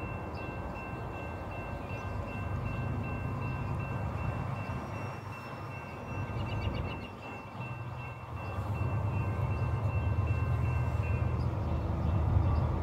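Low rumble of an approaching CSX freight train led by a GE ES44AH diesel locomotive, growing louder about eight seconds in. A faint steady high ringing tone sits over it and stops shortly before the end.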